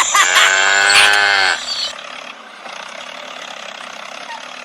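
A cow mooing once, a pitched call that drops at its end about a second and a half in, followed by a quieter steady hiss.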